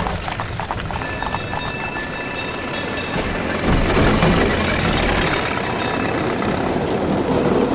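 Streetcar rumbling along its rails with a steady high whine over it. The low rumble grows heavier about four seconds in.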